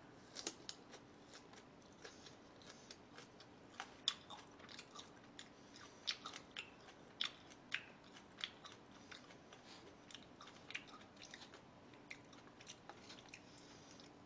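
A person chewing food close to the microphone: faint, irregular crunchy clicks, a few every second.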